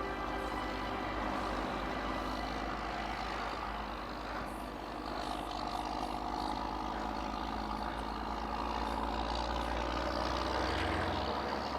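A heavy vehicle's engine running steadily at idle, with a low hum.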